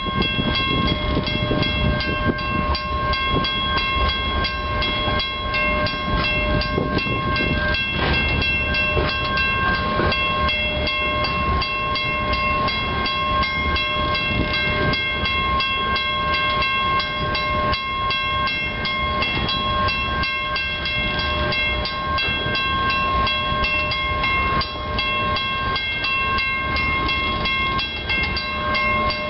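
Loaded covered-hopper cars of a long freight grain train rolling steadily past, a constant rumble with dense clicking of wheels over the rails. A steady high-pitched ringing runs over it throughout.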